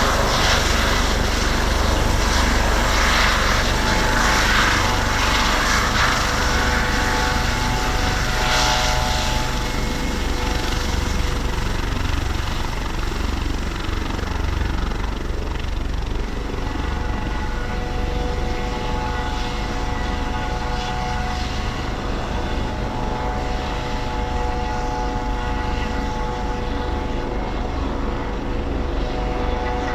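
Helicopter running, with a steady low rumble and a turbine whine. A broad rushing noise is strongest for the first ten seconds or so and then eases, while the whine holds.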